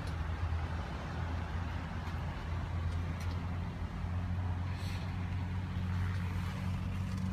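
Steady low hum of a 2011 Ford Edge's 3.5-litre V6 idling, heard from inside the cabin.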